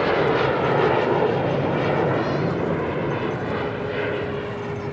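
Jet noise from Blue Impulse Kawasaki T-4 trainers, twin-turbofan jets, flying their aerobatic display; the roar is loudest about a second in and then slowly fades.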